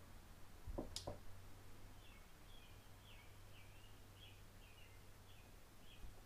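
Near-quiet workbench: a couple of soft clicks as wires and a tool are handled about a second in, over a steady low hum. From about two seconds in, a bird chirps faintly and repeatedly, about two chirps a second.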